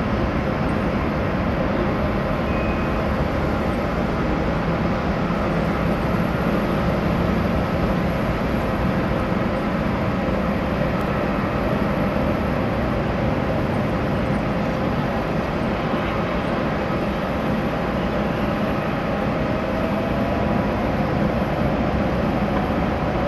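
Jet aircraft noise on an airport apron: a steady low rumble with a held whine over it, unchanging throughout.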